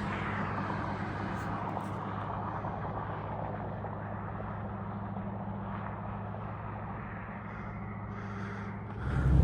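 A tractor-trailer's engine droning steadily under road and tyre noise while driving, getting suddenly louder near the end.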